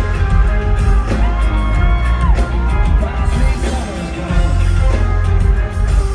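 Live rock band performance played loud, with heavy bass under guitar and keyboard lines. About a second in, a long held note bends in pitch and lasts over a second.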